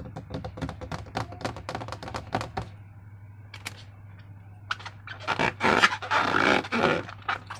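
Sticky slime being handled and squeezed. A quick run of crackling clicks comes first, then wet squelching in the second half, over a low steady hum.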